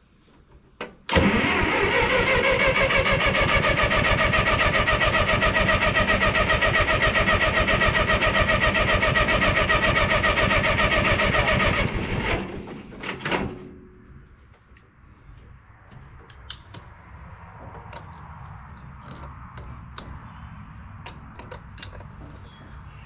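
1954 Minneapolis Moline UBU tractor's starter cranking the engine for about eleven seconds, with an even pulsing and a whine that rises as it spins up and then holds steady. The engine does not catch. It stops abruptly, followed by a few clicks. The no-start is from a piece of the points touching the distributor floor and grounding out the spark.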